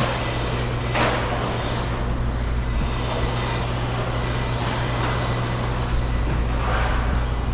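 Electric RC stadium trucks racing around the track. Their motors whine and their tyres hiss, swelling and fading several times as the trucks pass, over a steady low electrical hum.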